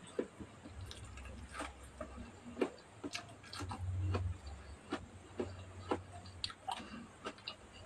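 Close-miked mouth sounds of a person chewing food with closed lips: irregular wet clicks and smacks, about a dozen, with a low hum underneath that swells briefly midway.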